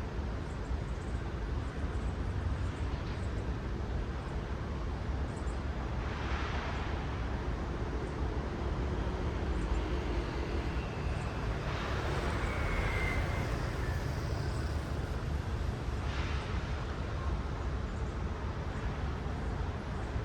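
City road traffic: a steady low rumble, with several cars passing close by, their tyre noise swelling and fading.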